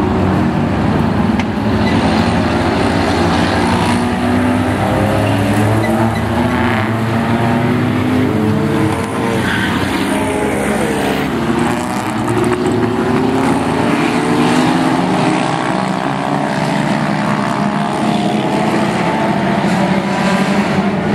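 A pack of race car engines running together on the track, several pitches overlapping and rising and falling as the cars accelerate, lift and pass.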